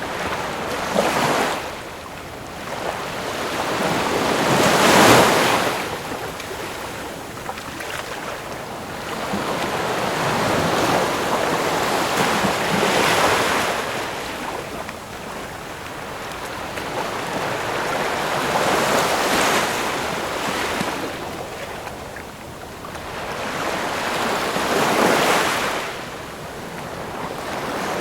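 Ocean waves breaking and washing in, one surge every six seconds or so, each swelling and then fading; the loudest comes about five seconds in.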